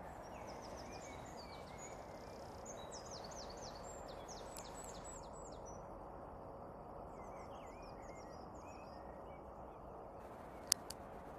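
A small bird singing a quick series of short, high, downward-sliding chirps, fainter in the second half, over a steady outdoor background hum. A single sharp click sounds near the end.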